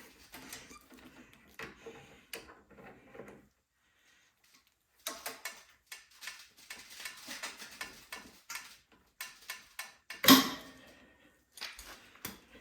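Small clicks, knocks and rattles of metal and plastic parts as the throttle lever and controls of a snowblower engine are pulled and twisted by hand, with one sharp clank about ten seconds in.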